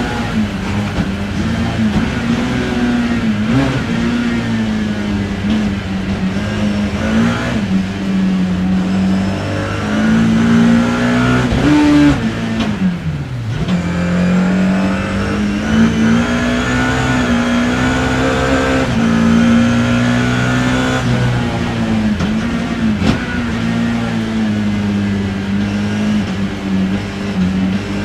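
BMW E30 M3 race car's four-cylinder engine running hard, heard from the cockpit, with brief dips in revs a few times. About twelve seconds in the revs drop steeply, then climb steadily for several seconds before levelling off.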